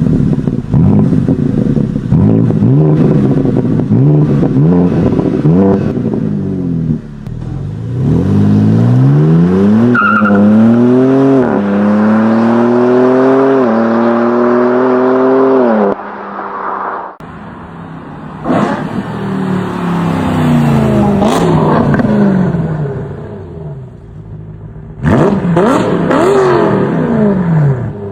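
BMW M-car engines revving and accelerating: a run of quick rev blips, then long pulls rising in pitch with sharp drops at each upshift, then more revving. The sound cuts abruptly between separate car clips about halfway through and again near the end.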